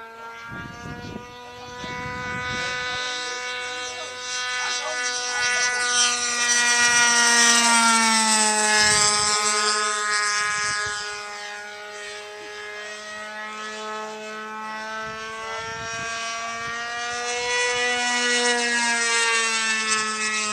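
Radio-controlled model airplane's motor and propeller making a steady whine as it flies past, growing louder to a peak about a third of the way in, dropping slightly in pitch as it passes, fading, then growing louder again near the end as it comes around.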